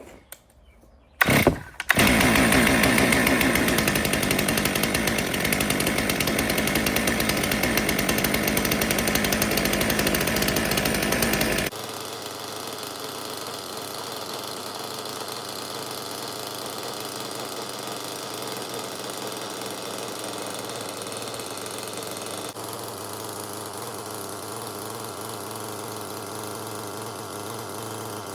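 Stihl MS362 M-Tronic two-stroke chainsaw started with a brief pull and then left running on the start position with the chain brake on and the trigger untouched: the M-Tronic reset run after a fuel-solenoid replacement. About halfway through, the sound drops abruptly to a quieter steady run.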